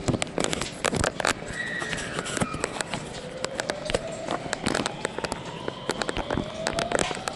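Electric train (521-series EMU) pulling away, heard from inside the car: repeated clunks and clicks of the wheels over rail joints and points, with the traction motor whine rising slowly in pitch as it accelerates.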